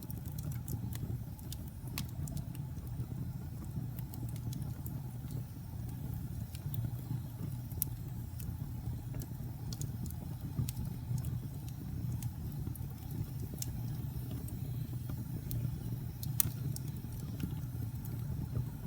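Wood fire crackling: a steady low rumble of burning with scattered sharp pops and snaps at irregular intervals, a few of them louder.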